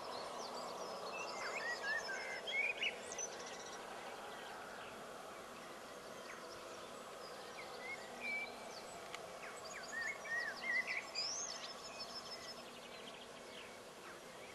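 Small birds chirping in short, quick phrases over a steady background hiss, with the busiest chirping about two seconds in and again around eight to eleven seconds in.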